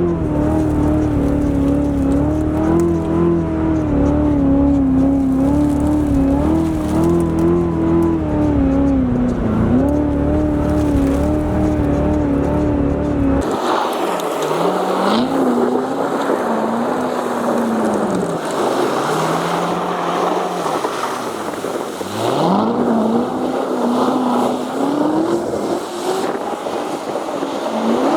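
Supercharged 6.2-litre V8 of a Corvette C7 Z06 running at a steady, gently wavering pitch for about half the time, then, after a sudden change, revving up and down again and again over a hiss of tyres in snow.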